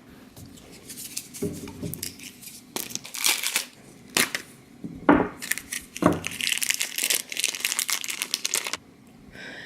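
A plastic blind-bag wrapper being torn open and crinkled by hand, in irregular rustles with several sharp crackles and clicks.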